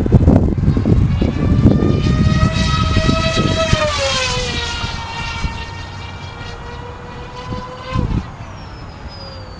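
The twin brushless electric motors and propellers of an RC TwinJet whine in flight, with a steady pitch that drops as the plane passes about four seconds in and then fades away. Gusty wind rumbles on the microphone in the first couple of seconds, and a short thump comes near the end.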